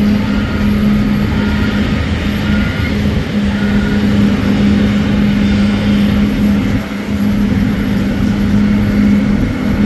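Boeing 777-200ER's jet engines running at ground idle after start: a steady hum of rushing noise with a strong, constant low drone.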